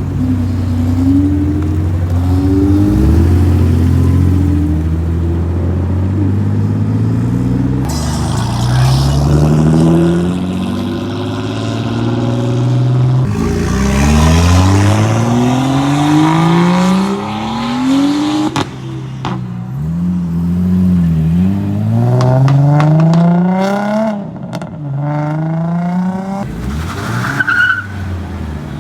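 Cars launching hard, engines revving with pitch climbing, dropping and climbing again again and again as they shift up through the gears. There is tyre squeal and noise from the wheels spinning during the launches.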